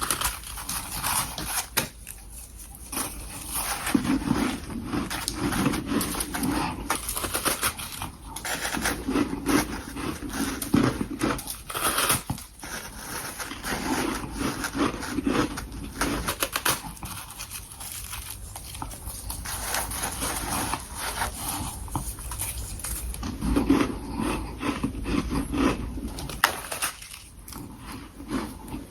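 Mouthfuls of powdery freezer frost being bitten and chewed close to the microphone: dense crackling crunches that come in bouts of a few seconds.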